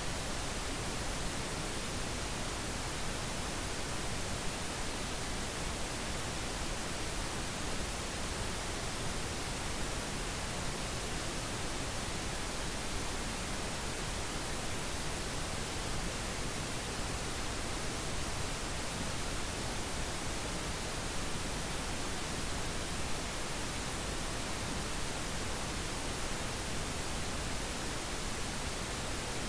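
Steady synthetic pink noise: an even, unbroken hiss spread across the whole range, with no changes or events.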